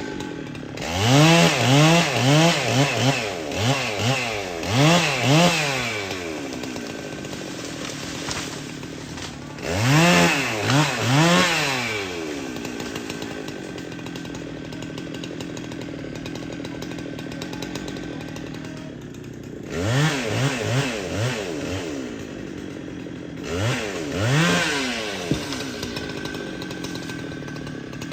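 Chainsaw idling and being revved in repeated quick bursts, the engine pitch sweeping up and down. There is a run of revs in the first few seconds, another about ten seconds in, and two shorter bursts around twenty and twenty-four seconds.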